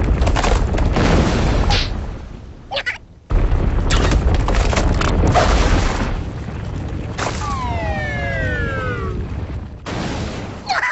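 Cartoon earthquake sound effects: loud, deep rumbling and crashing that cuts off for a moment about three seconds in, then starts again. About seven seconds in, a whistle falls steadily in pitch for about two seconds over the rumble.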